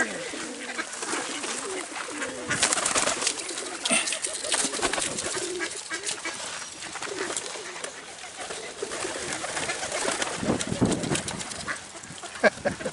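A flock of feral pigeons crowding in to feed, cooing, amid many short rustles and clicks from the jostling birds.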